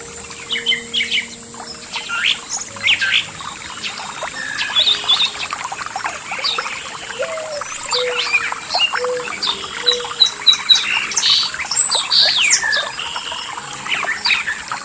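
A chorus of several songbirds chirping and whistling in many overlapping short calls, over a faint trickle of running water.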